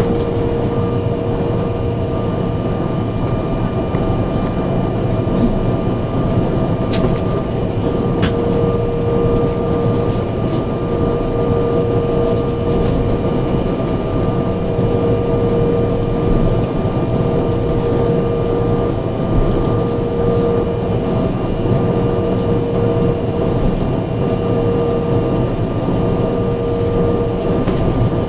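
Cabin noise inside an Embraer 175 regional jet: the steady drone of its GE CF34 turbofan engines at low, unchanging power, with whining tones over a constant hiss of air. A couple of faint clicks about seven and eight seconds in.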